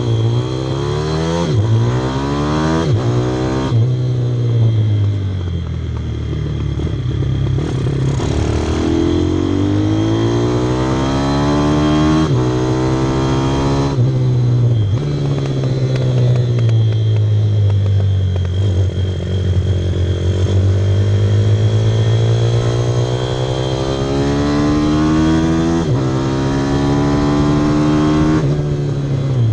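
Pit bike's single-cylinder engine at speed, revving up through quick gear changes in the first few seconds. Its pitch then falls and climbs in long sweeps as it eases off and pulls again, with a few sudden drops in pitch at further shifts.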